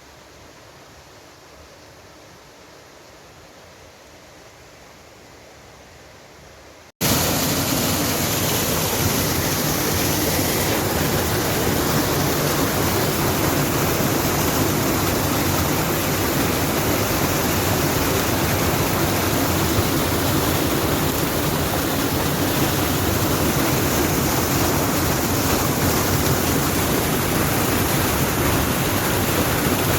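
Faint steady hiss that gives way abruptly, about seven seconds in, to a loud, steady rushing noise with no distinct events in it.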